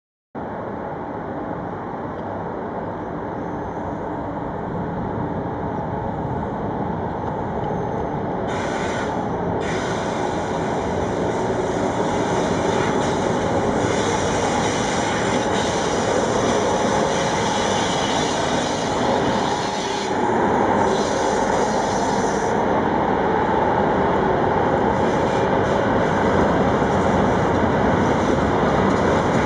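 Freight train rolling along the track: a continuous rumble of wheels on rails that grows gradually louder.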